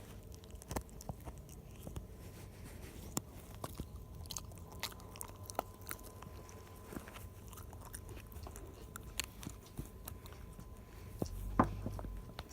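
A Shiba Inu gnawing and crunching a hard cow hoof chew: irregular sharp cracks and clicks, with one louder crack near the end.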